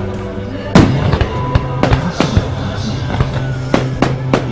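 Fireworks going off: a string of sharp bangs and pops, the loudest about a second in, over music with long held low notes.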